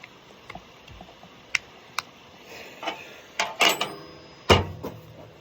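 Scattered clicks and clatter of hand work on a lawn mower, metal tools and parts knocking together, with a loud ringing metal clank about four and a half seconds in.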